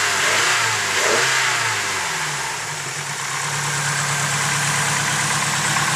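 Turbocharged Nissan KA24DE engine running, its speed shifting briefly in the first couple of seconds and then holding at a steady idle, with the lifter tick that appeared a few months after the engine was fully built.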